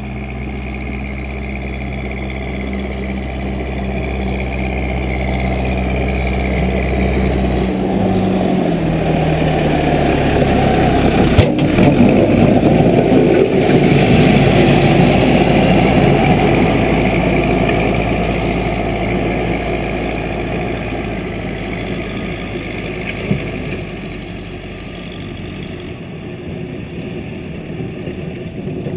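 Case 580B backhoe running, its steady engine note dropping in pitch about eight seconds in. A rougher, noisier sound then swells to its loudest around the middle and fades away toward the end, with one sharp click partway through.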